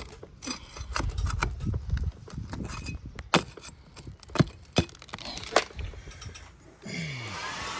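Scattered sharp knocks, clicks and scrapes of hand work on asphalt roof shingles during a shingle repair. About seven seconds in, a steady rushing noise starts with a brief falling tone.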